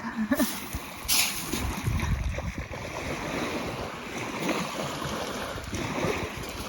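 Lake Superior waves washing onto the beach, a steady rushing with wind buffeting the microphone, and a brief sharper hiss about a second in.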